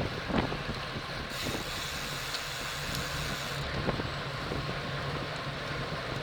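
Wind rushing over the microphone of a racing bicycle's onboard camera at race speed, with a steady hum of road and tyre noise and a couple of faint clicks near the start.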